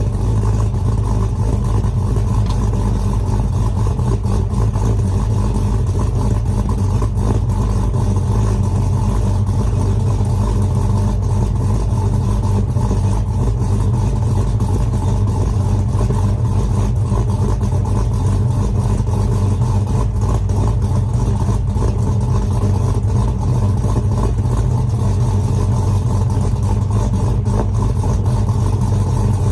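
2018 Chevy Silverado engine fitted with an aftermarket camshaft, idling steadily after a cold start; the pitch neither rises nor falls.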